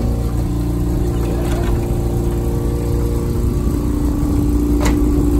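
Loud car engine running steadily, a low drone that grows a little stronger in the second half, with one short click about five seconds in.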